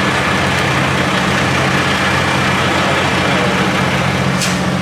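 Semi truck's diesel engine idling steadily, with a brief high hiss near the end.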